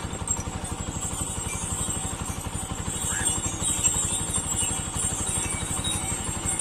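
Engine running steadily with a fast, even low putter, under a constant high hiss.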